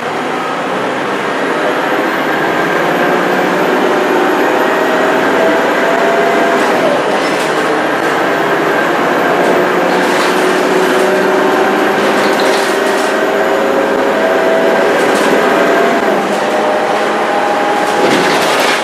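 Scania K230UB Euro 4 city bus under way, heard on board: the engine and ZF automatic gearbox whine rises slowly in pitch, drops back at a gear change about seven seconds in, then climbs again, with a faint high turbo whistle.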